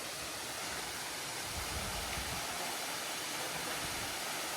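Steady rush of water falling over a waterfall.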